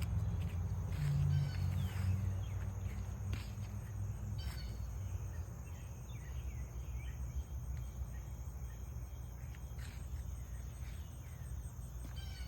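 Outdoor garden ambience: a low steady rumble under faint, scattered bird chirps and a steady insect trill.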